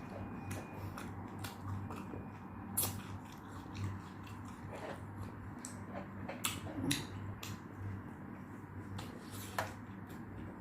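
A person chewing food close to the microphone, with irregular sharp crunches and wet mouth clicks.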